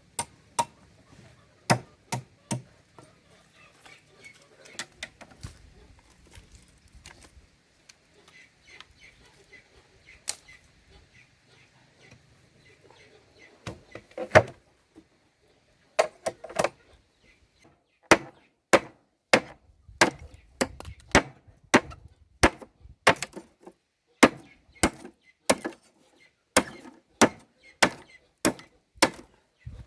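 Repeated chopping strokes, sharp knocks with a blade. A few strokes at the start, then a long pause with only scattered knocks, then steady chopping at about two strokes a second through the second half.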